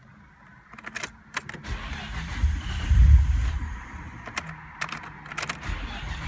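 Sharp clicks and key jangling as the ignition of a Nissan Skyline GT-R R34 is worked, with a low rumble swelling and fading about two to three and a half seconds in.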